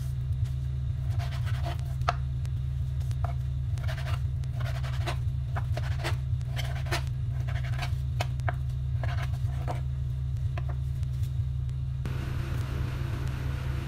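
Irregular light scraping and tapping over a steady low hum; about twelve seconds in, the taps stop and an even hiss takes over.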